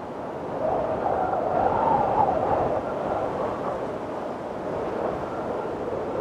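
Windstorm wind blowing steadily, with a gust that swells about half a second in, carrying a faint whistling tone that rises and then falls, before easing back.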